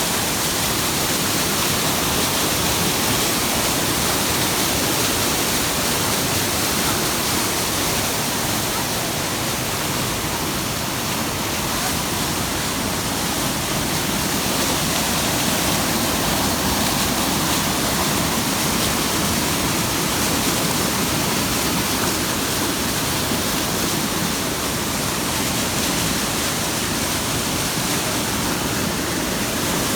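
Fast-flowing water rushing steadily, a constant even hiss of a stream or waterfall.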